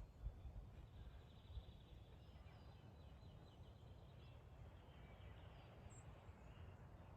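Wind rumbling on the microphone, with faint chirps and a quick trill from small birds in the background.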